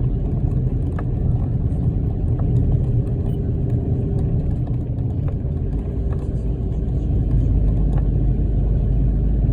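Mitsubishi Delica D:5 driving on all-terrain tyres: a steady low rumble of road and tyre noise.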